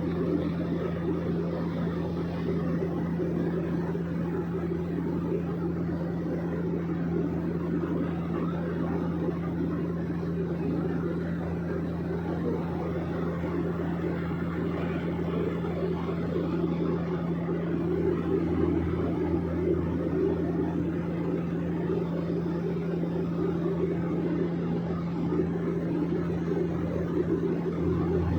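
Steady engine and propeller drone of a small private airplane, heard from inside the cabin: a constant low hum under a dense rumble, with no change in pitch.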